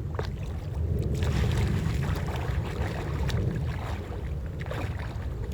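Water splashing and sloshing close to the microphone, busiest in the middle, over a low rumble of wind on the microphone.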